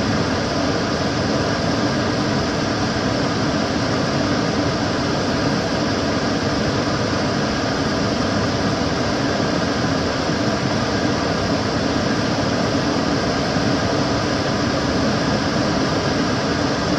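Kitchen cooker hood extractor fan running steadily: an even rushing of air with a low hum and faint steady tones.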